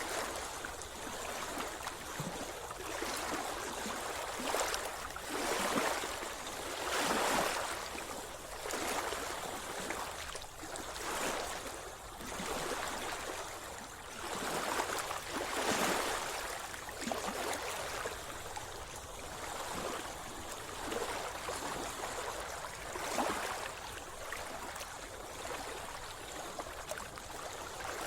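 Sea water splashing and lapping close by, in irregular surges every second or two.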